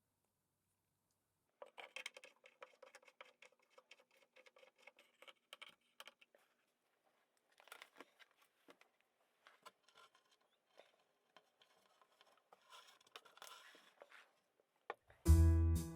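Quiet, scattered scratching, tapping and rustling handling noises, a few to several a second, with small pauses. Piano music starts loudly about a second before the end.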